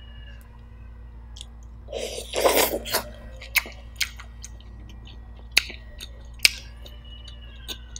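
Close-miked eating of roast chicken: a loud, noisy mouthful taken about two seconds in, then chewing with closed lips, with several sharp, wet mouth clicks.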